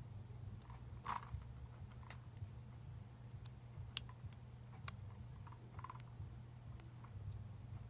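Scattered small clicks and taps of lightsaber replica parts and tools being handled during disassembly, irregular, the sharpest about a second in and four seconds in, over a steady low hum.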